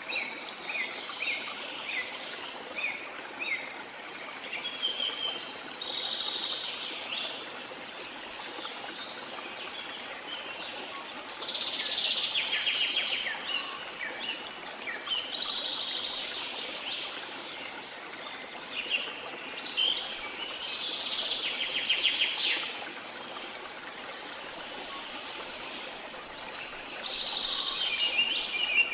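Steady rushing water of a waterfall, with birds singing over it in short chirps and then song phrases of a second or two every few seconds.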